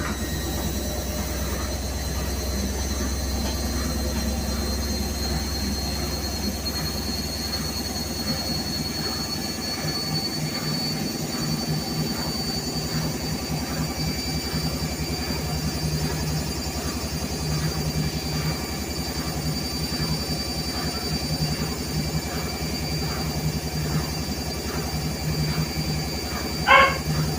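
Whirlpool washing machine running, a steady hum with a faint regular churn and a high whine that slowly rises in pitch. A dog barks once near the end.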